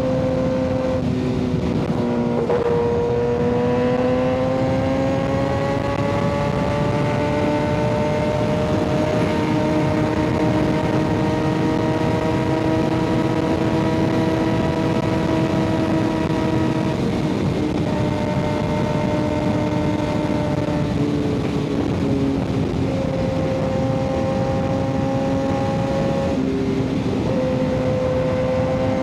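Kawasaki ZX-6R 636 inline-four engine running through an M4 exhaust while riding: the engine note dips a couple of seconds in, climbs slowly, holds steady, then drops and picks up again in steps in the second half.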